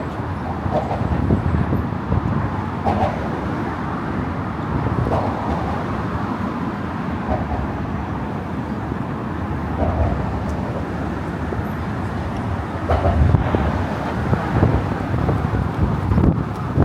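Steady road traffic noise from cars, a continuous low rush with a few brief louder swells late on.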